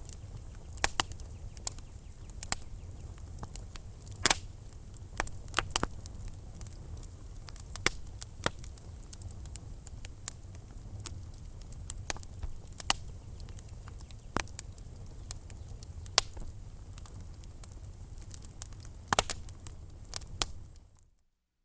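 Wood fire crackling in a fireplace: irregular sharp pops and snaps over a low steady rumble, fading out near the end.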